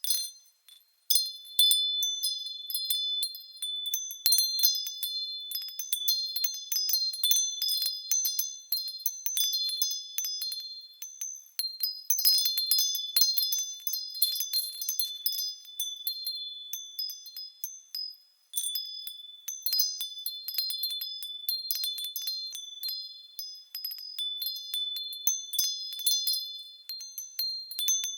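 Japanese wind chimes (fūrin) ringing in the breeze: clear, high tones at a few fixed pitches, struck irregularly, with brief lulls when the wind drops.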